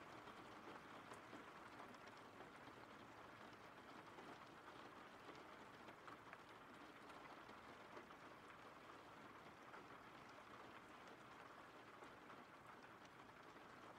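Faint, steady rain falling, with scattered light drop ticks.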